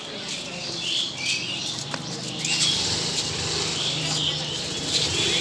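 Small birds chirping repeatedly, with voices faintly in the background.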